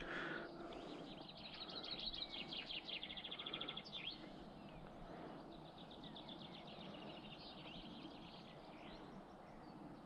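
A songbird singing two fast trilled phrases, one starting about a second and a half in and another about five seconds in, over a faint steady outdoor background.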